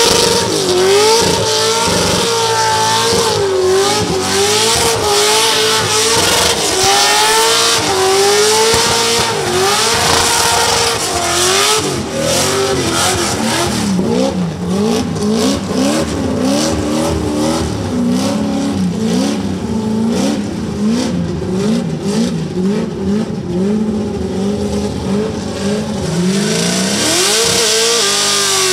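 Holden VF Commodore's 6.0-litre V8 held at high revs through a burnout, rear tyres spinning, the engine note wavering up and down as the throttle is worked. About halfway through the revs drop and hunt rapidly up and down with short breaks, then climb high again near the end.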